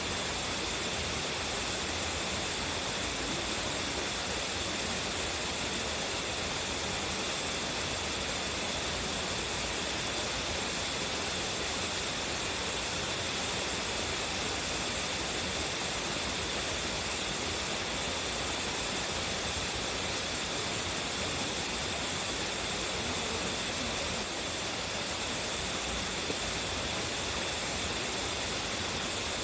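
Waterfall with a strong flow, its water pouring and splashing in a steady, unbroken rush.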